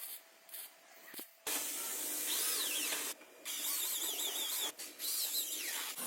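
A high-speed power tool running in three bursts of about a second each, a hissing noise with a high whine that rises and falls in pitch, after a few light clicks.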